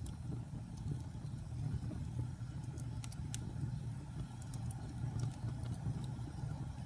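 Wood fire burning in a fireplace: a low, steady rumble of the flames with sharp crackles and pops scattered irregularly through it.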